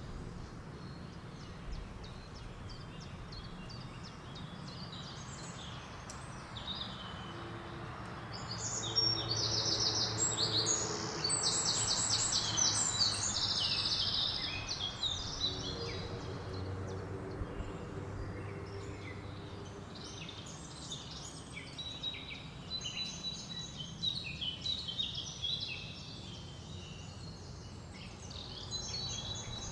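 Several birds singing and calling over a steady rustle of wind through the leaves. A fast, loud run of repeated trilling notes comes about nine seconds in and lasts some five seconds, while the wind swells at the same time.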